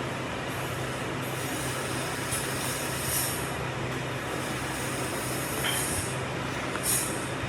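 A workshop machine running steadily with a low hum, with brief hissing bursts about three seconds in and again near the end.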